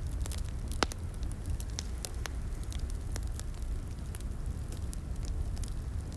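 Wood fire crackling in a fireplace: irregular sharp pops and snaps over a steady low rumble of the flames, with one louder pop about a second in.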